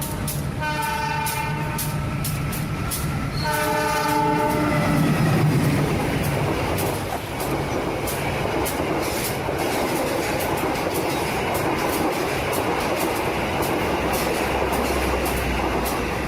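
Train horn sounding two blasts of about a second and a half each, followed by a train running along the track, a steady rumble with a regular clickety-clack of the wheels.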